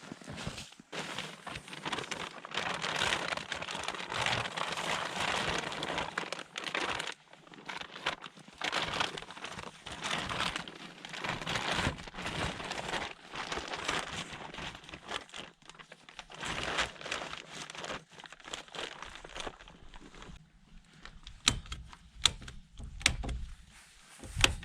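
Plastic tarpaulin crinkling and rustling in irregular bursts as it is handled, followed by a few sharp clicks or knocks near the end.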